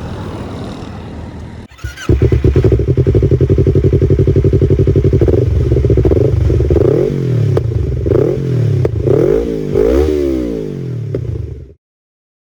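Yamaha R25's parallel-twin engine through an aftermarket Brave exhaust: it cuts in about two seconds in and runs with a steady pulsing beat, then is revved up and down several times before the sound stops abruptly near the end.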